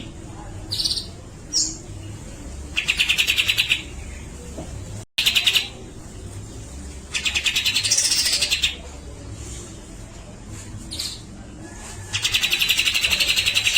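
Grey-cheeked bulbul (cucak jenggot) giving its harsh rattling calls: four bursts of rapid pulses, about a dozen a second, each lasting up to a second and a half, with short higher chirps between them.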